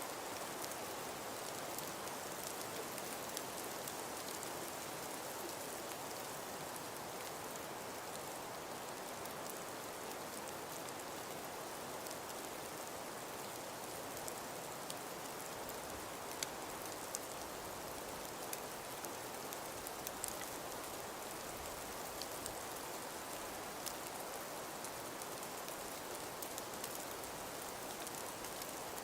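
Steady hiss of wind-blown falling snow, with scattered faint ticks of it striking surfaces.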